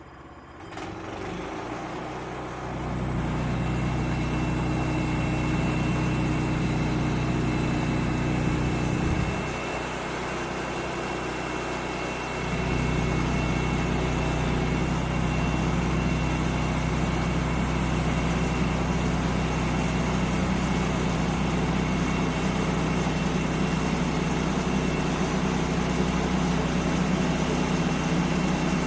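Sawmill's engine running steadily. It comes in sharply about a second in and builds up over the next two seconds, with a brief drop in level about a third of the way through.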